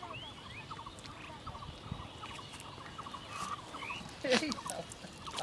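Birds calling around, with many short rising chirps, and one louder call falling in pitch about four seconds in.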